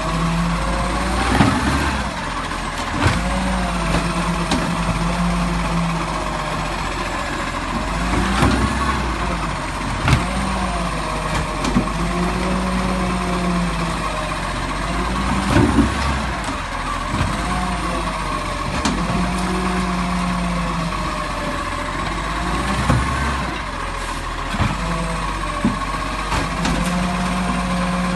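Garbage truck running, with a droning hum that comes and goes every few seconds and a tone that rises and falls in slow waves. Several sharp knocks and clunks are scattered through it.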